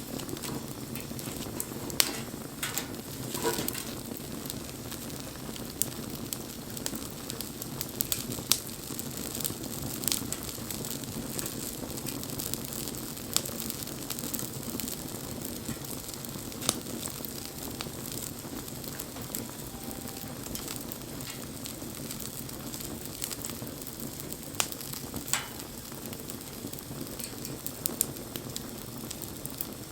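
Wood fire burning: a steady soft rush of flames with frequent sharp crackles and pops from the burning wood.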